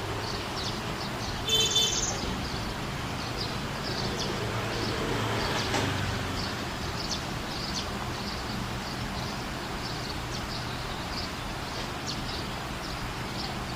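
Small sunbird chirping, with short high chirps about once or twice a second and one louder, longer call near 2 s, over a steady background hiss.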